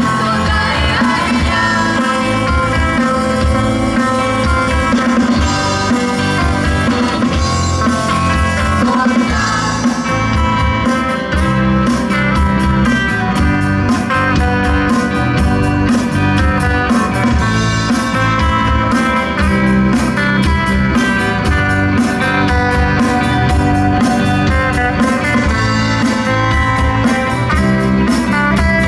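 Live rock band playing an instrumental passage: guitar over bass and drums, with the drum beat standing out more clearly from about ten seconds in.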